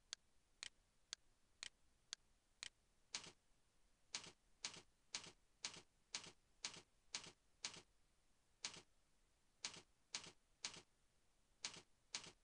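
Faint computer mouse clicks, evenly spaced at about two a second.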